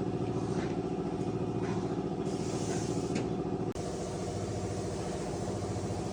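A motor-vehicle engine running steadily at an even speed. Partway through there is a hiss lasting about a second and a half, which ends with a brief dip.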